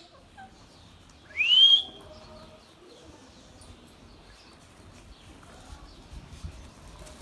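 Indian ringneck parakeet (rose-ringed parakeet) giving a single clear rising whistle about a second and a half in.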